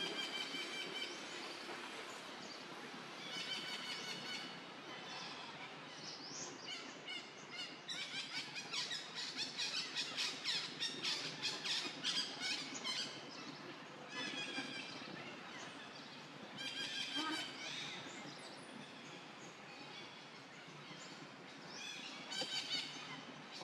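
Wild birds calling outdoors: repeated short trilled chirps, with a denser run of fast pulsing calls from about a third to halfway through, over steady outdoor background noise.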